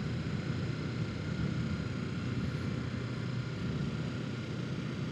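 Kawasaki Ninja 650's parallel-twin engine running at a steady cruise, under a low, even rumble of wind and road noise on the rider's microphone.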